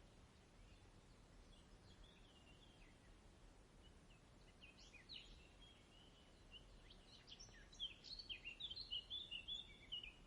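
Faint songbird singing: quick chirps and short twittering phrases, sparse at first and coming thick and fast in the last few seconds, over a low steady background hiss.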